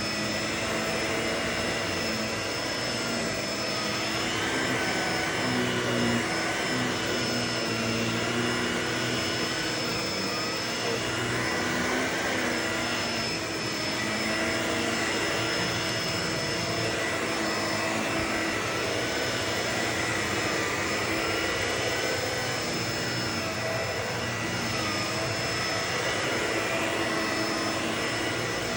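Vacuum cleaner running steadily: a constant rush of air with a steady high whine and other tones that waver up and down in pitch.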